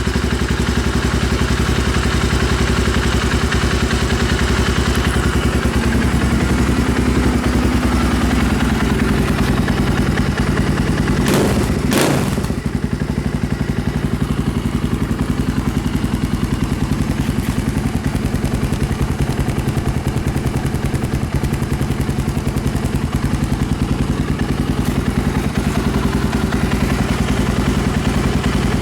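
1997 Suzuki DR350's single-cylinder four-stroke engine idling steadily soon after a cold start, through a loud Danmoto aftermarket slip-on exhaust. Two sharp knocks sound close together about eleven seconds in.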